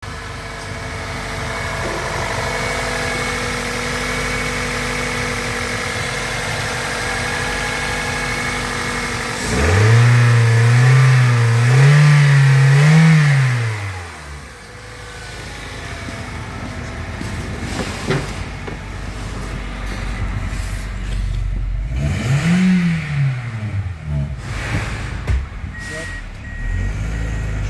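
Toyota 1ZZ-FE 1.8-litre four-cylinder engine being test-run: it idles steadily, is revved up about nine seconds in and held at mid revs for about four seconds, then drops back to idle. Later it gets one more short rev blip that rises and falls.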